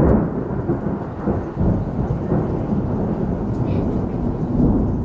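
Thunder: a sudden clap that rolls into a long low rumble, with rain falling throughout.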